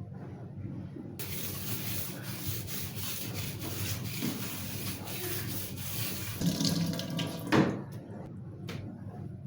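Kitchen tap running into a sink, turned on about a second in and off near the end, with a knock just before the water stops.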